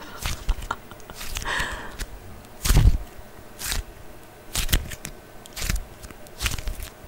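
Close-miked ASMR trigger sounds: a series of irregular crisp clicks and soft knocks, roughly one a second, the loudest just under three seconds in.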